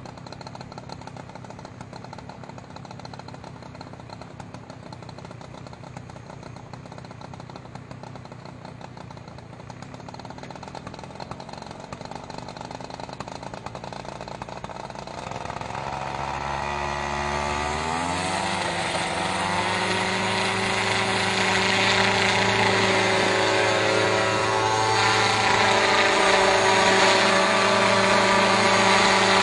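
Multirotor crop-spraying drone: a low mechanical rumble for the first half, then the propellers spin up past halfway, a rising whine that settles into a steady, louder hum of several tones.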